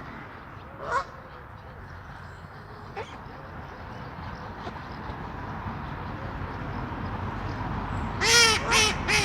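Birds calling at a duck pond over a steady background hiss: a single call about a second in and a brief one at three seconds, then a quick run of loud, harsh calls near the end.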